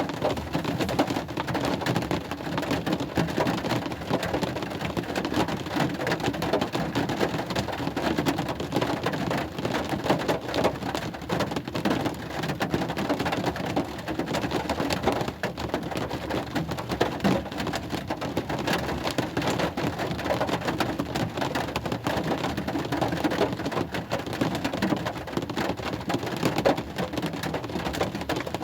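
Steady rain falling: a dense, unbroken spatter of drops that keeps the same strength throughout.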